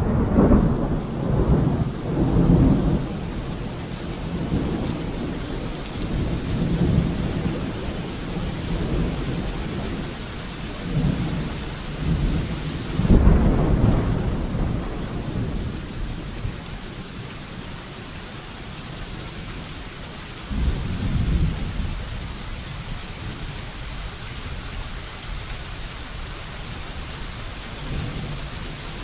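Steady rain hissing down with rolls of thunder rumbling again and again. A loud roll sits at the start and dies away over the first few seconds, the strongest peal comes about halfway through, and weaker rumbles come in between and near the end.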